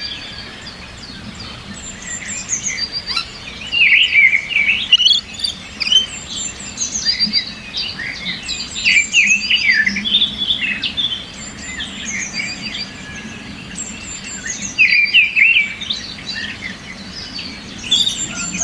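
Several songbirds singing and chirping, short trilled phrases coming in bursts every second or two, over a faint steady background hum.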